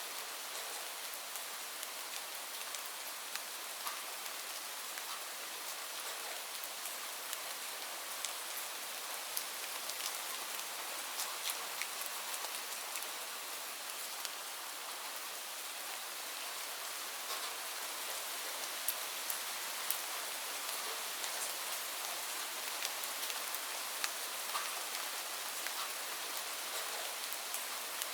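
Steady rain falling, a continuous hiss with the sharp ticks of single drops hitting a surface scattered throughout.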